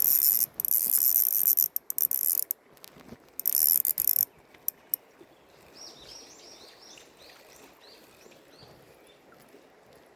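Spinning fishing reel giving a fast ratcheting buzz in two runs, about two seconds and then one second long. Later, a bird chirps repeatedly for a few seconds.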